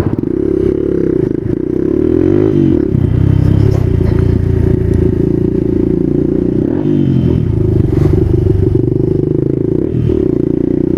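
Small motorcycle engine running while riding, its revs rising and falling a couple of times as it changes speed.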